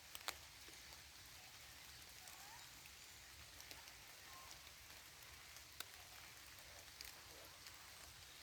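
Light rain in a forest: a faint, steady patter with occasional single drops landing more sharply, the loudest a fraction of a second in.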